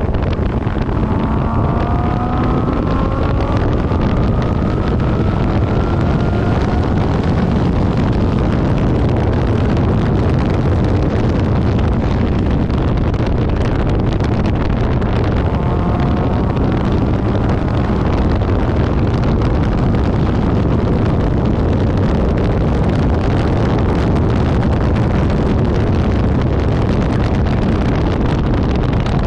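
Infiniti G37S's 3.7-litre V6 running hard at track speed under heavy wind and road noise on the microphone. The engine note climbs in pitch under acceleration about a second in and again around the middle.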